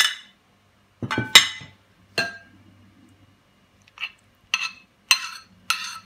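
A spoon clinking against a bowl, about seven sharp, irregular clinks as red beets are spooned into the salad dressing.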